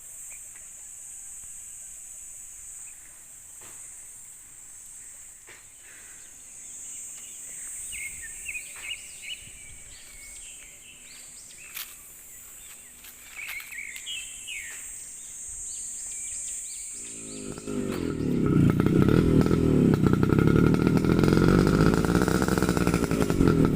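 Outdoor farm ambience: a steady high insect drone with a few short bird chirps, then, a little over two-thirds of the way in, strong wind starts buffeting the microphone with a loud low rumble that dominates the rest.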